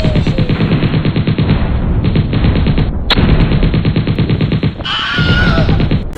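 Rapid automatic gunfire in two long strings of evenly spaced shots, broken by a short gap about three seconds in, followed near the end by a shorter, noisier sound with gliding tones.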